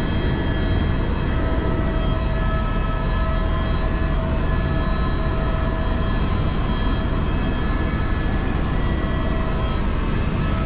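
Helicopter in flight: a steady heavy rumble of rotor and engine noise with several steady whining tones over it.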